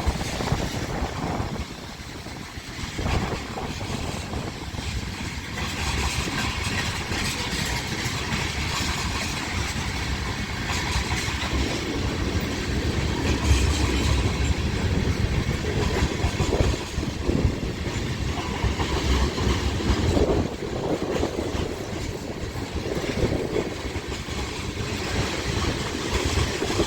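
Loaded freight train rolling past, its steel wheels running on the rails with a steady rumble and scattered knocks.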